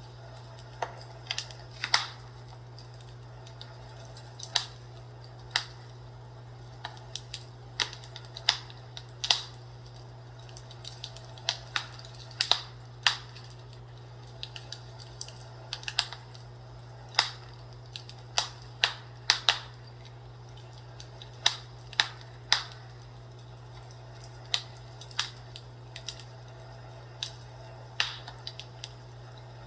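Wood fire crackling, with irregular sharp pops and snaps about once a second over a steady low hum.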